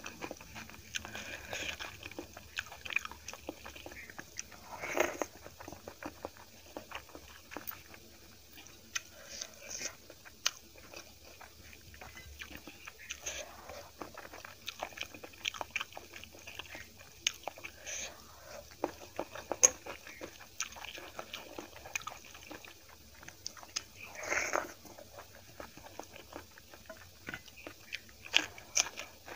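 Close-miked chewing and biting of rice with kadhi and vegetables eaten by hand: many small wet clicks and crunches, with two louder moments about five seconds in and near the end.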